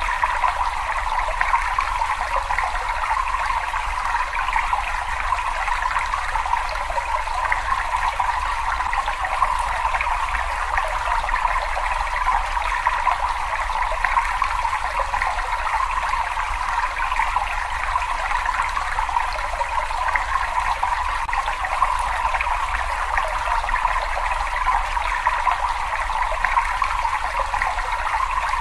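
Water trickling and splashing steadily in a cave: an unbroken mass of small splashes with a faint low rumble beneath.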